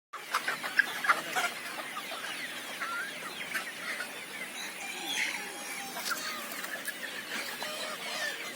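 A flock of young desi chickens, about three months old, clucking and calling in many short overlapping calls, with a few sharp taps in the first second and a half.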